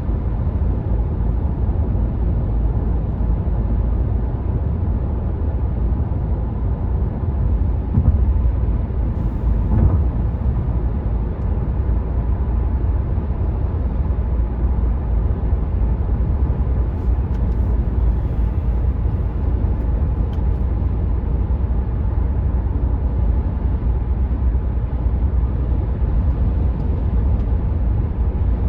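Cabin noise of a Renault Megane 4 1.5 dCi diesel at motorway speed: a steady low rumble of road, tyres and wind with the engine underneath. Two brief thumps come about eight and ten seconds in.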